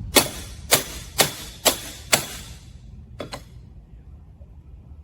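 Hammer blows on metal with a ringing note: five strikes about half a second apart, then one more about a second later. The blows drive a part of a Sun Baja trike into place.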